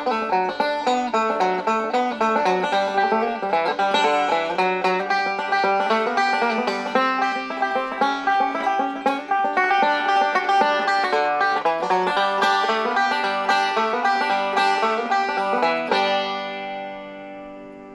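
Banjo playing a fast, rapidly picked bluegrass tune. A last chord is struck about 16 seconds in and rings out, fading away.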